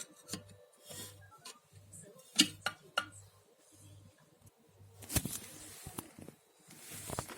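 A screwdriver prying around the rim of an electric kettle's glass body to free it from the heating-element plate: scattered sharp clicks and scrapes of metal on glass and plastic. A faint low pulse repeats about twice a second behind it.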